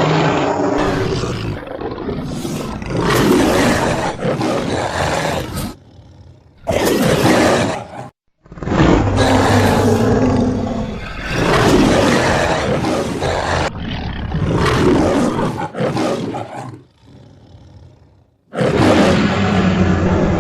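Monster sound effect: a series of loud, rough roars, each lasting several seconds, with brief pauses between them.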